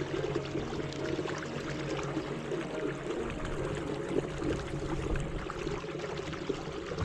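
River water splashing and trickling around a moving canoe, a steady busy patter.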